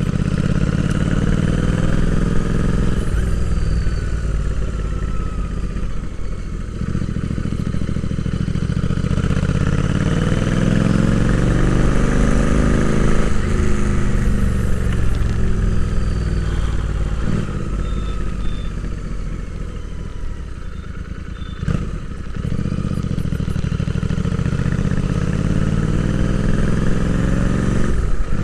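Royal Enfield Interceptor 650's 648 cc parallel-twin engine heard onboard under way, its pitch climbing as it accelerates and falling as the throttle eases, with short breaks where gears are changed, about a quarter of the way in, near the middle and late on.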